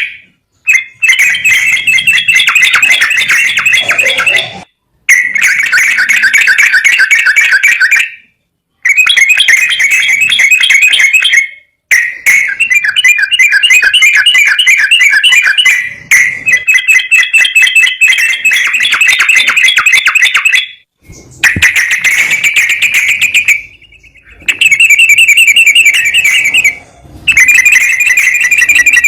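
Recorded songbird song played back as a lure: rapid, high chattering trills in bursts of a few seconds, about eight of them, separated by short breaks.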